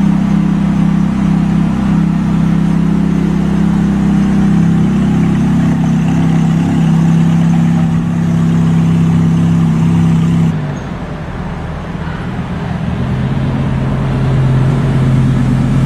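Ferrari F430's V8 running steadily at idle. About ten seconds in it cuts off abruptly, and after a short quieter stretch a Lamborghini Gallardo's V10 comes in, running steadily at low revs with a lower pitch.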